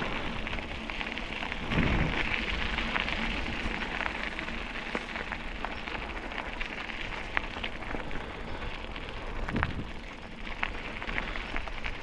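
Wheels rolling over a rough path: a steady crackle of many small clicks over a low rumble, with a couple of heavier bumps.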